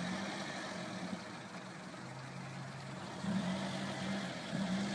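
Acura Integra's four-cylinder engine running steadily, getting louder a little past halfway through.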